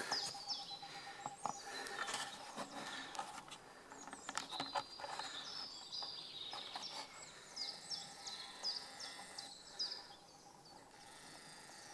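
Songbird singing: two runs of quick, high, falling chirp notes, the second from about five seconds in, over a faint woodland background, with a few sharp clicks between one and three seconds in.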